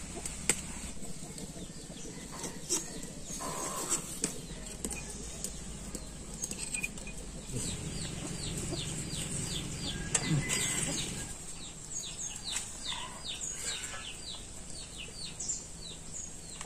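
A bird calling in rapid runs of short, high, falling chirps, about three a second, in two long series, with scattered light taps and clicks from handling garlic and a knife.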